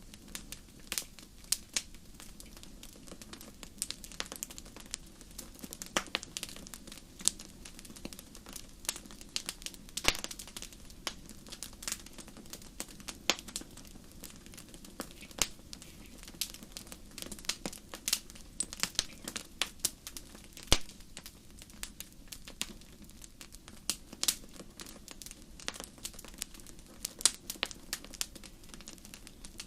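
Wood campfire crackling: a steady run of irregular sharp pops and snaps, some much louder than others, over a low, even rush of flame.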